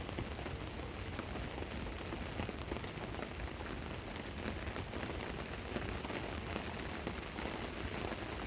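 Steady rain pattering on a tarp overhead, a continuous hiss of drops with many small scattered ticks.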